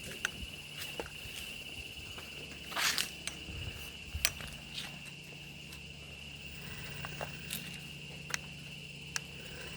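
Footsteps on the forest floor with scattered clicks and snaps, over a steady high-pitched drone of insects.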